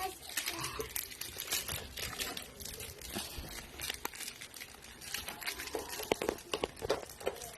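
Soft rustling and crinkling with many small scattered clicks, the sound of eyeglasses being handled and wiped clean.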